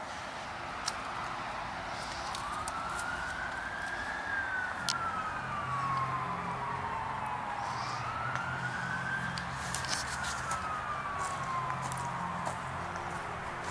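Police siren wailing in two slow cycles, each rising over about two seconds and then falling more slowly. A low steady hum comes in about five seconds in, with scattered clicks throughout.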